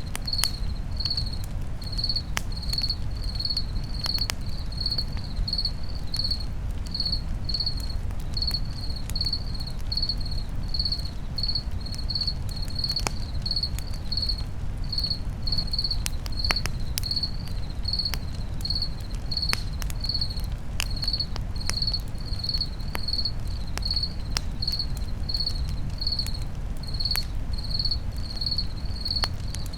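Crickets chirping steadily, about two to three chirps a second, over a crackling campfire with scattered sharp pops and a low steady rumble.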